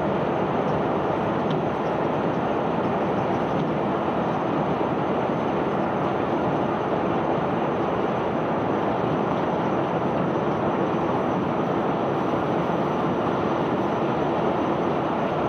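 Self-unloading barge discharging iron ore and river rock: the unloading machinery runs with a steady rumble and rush of pouring cargo, under a faint steady hum.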